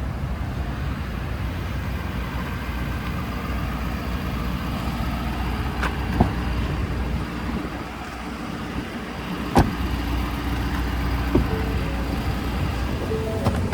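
Ford F-550 truck engine running steadily, a constant low hum, with three short knocks or clicks partway through, the second the loudest.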